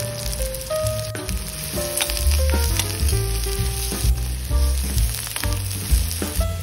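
Chopped onions and curry leaves sizzling in hot oil in a steel pan as they are stirred with a metal spatula, over background music with a strong bass line and a simple melody.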